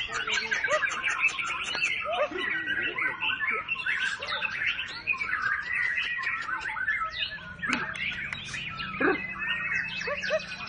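Many caged songbirds singing at once at a bird-singing contest, a dense chorus of overlapping chirps and whistled phrases. A low steady hum joins about three-quarters of the way through.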